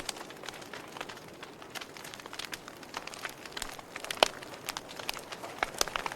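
Wood fire in a fireplace crackling, with irregular sharp pops over a steady hiss. One louder pop comes about four seconds in.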